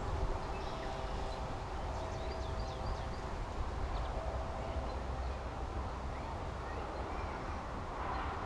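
Outdoor pond ambience: small birds twittering faintly in short high chirps, mostly in the first half, over a steady low rumble.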